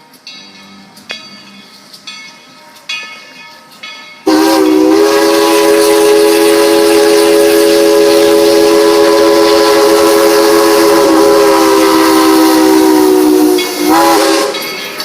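Steam locomotive whistle sounding one long chord of several notes at once, starting suddenly about four seconds in and held for about nine seconds, then a short second toot near the end.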